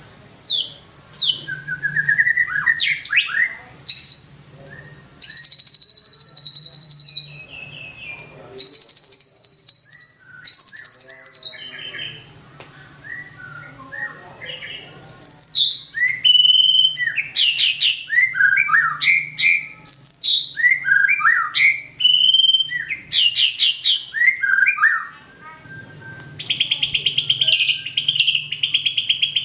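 White-rumped shama singing a varied, vigorous song of clear whistled sweeps and fast buzzy trills, phrase after phrase with short gaps. Near the end it holds one long rapid trill. A faint low hum runs beneath.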